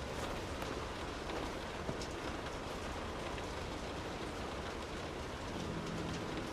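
Soft, steady rain falling: an even hiss with scattered individual drop ticks.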